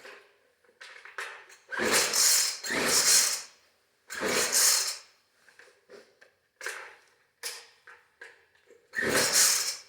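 Recoil pull-cord starter of a two-stroke small engine yanked several times, each pull a short rasping rush as the engine turns over; four hard pulls and the engine never catches, so it won't start.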